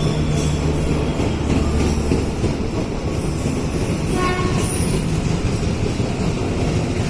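A train running through a station: a steady, loud rumble of wheels on rail with high-pitched wheel squeal, and a brief tonal sound about four seconds in.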